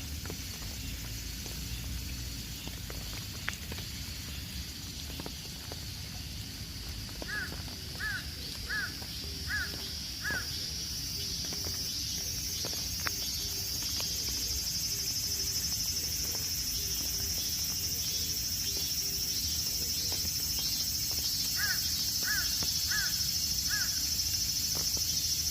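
Outdoor nature ambience: a steady high-pitched insect chorus that grows louder from about halfway through, with a low rumble underneath. A bird calls five times in quick succession about a third of the way in, and four times more near the end.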